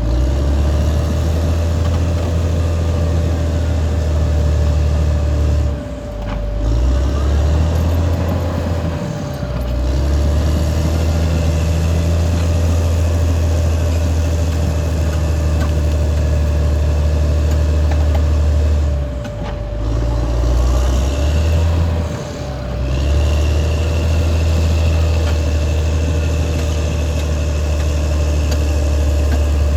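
Caterpillar D6R XL crawler dozer's diesel engine working under load, a steady low drone with a constant whine over it. It eases off briefly four times, about 6, 9, 19 and 22 seconds in. A higher thin whine joins after about 21 seconds.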